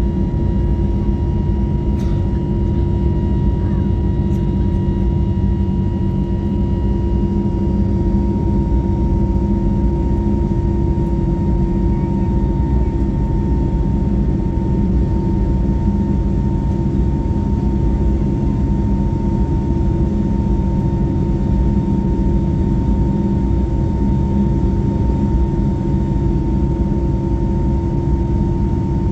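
Steady cabin noise of an Airbus A321neo in flight: a constant low drone of engines and airflow with a faint steady whine above it, unchanging throughout.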